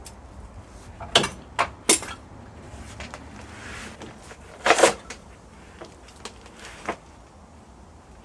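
Several separate sharp metal knocks and clanks from hand tools being worked on the seized engine, the loudest and longest about halfway through.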